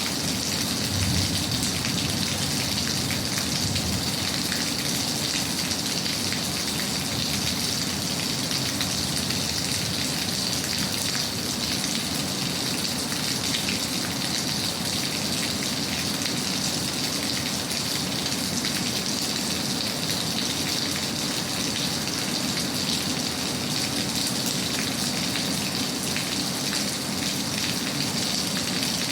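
Steady rain falling, a dense even patter of drops that does not let up.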